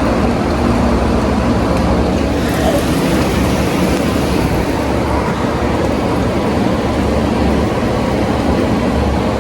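Strong thunderstorm wind and rain making a loud, steady rush with a low rumble underneath.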